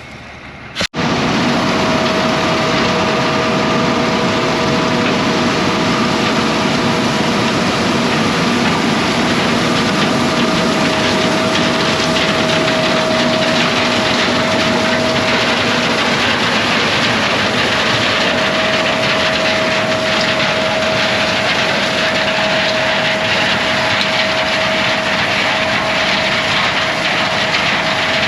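Heavy farm machinery running steadily: a loud, even rush with a constant whine, starting abruptly about a second in.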